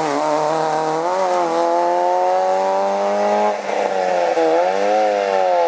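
Rally car engine under hard acceleration, its pitch climbing steadily, then dropping sharply a little past halfway and climbing and falling twice more.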